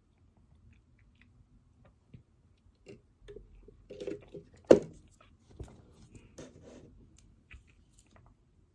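Things being handled on a study desk: scattered small clicks and short rustles, with one sharp knock about halfway through.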